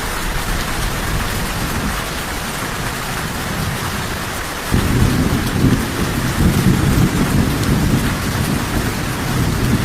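Steady heavy rain with thunder. A low rolling rumble of thunder comes in suddenly about halfway through and keeps grumbling under the rain.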